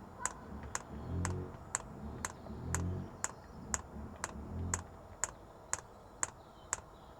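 Diesel heater's fuel dosing pump ticking steadily, about two sharp clicks a second, while it primes a newly fitted fuel line and pushes fuel toward the filter.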